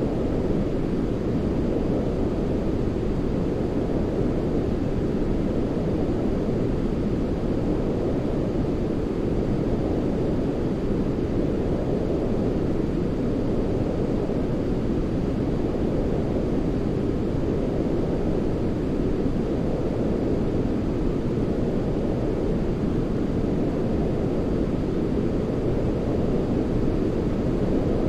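Steady sleep-aid noise for babies, deep and rumbling rather than hissy, like brown noise, running on evenly without breaks.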